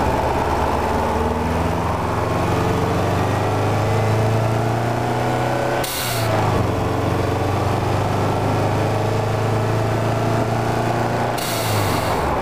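2002 Subaru WRX's turbocharged flat-four engine pulling through the gears, heard from inside the cabin. A short hiss from the newly fitted blow-off valve venting comes at a gear change about six seconds in, and a longer one near the end.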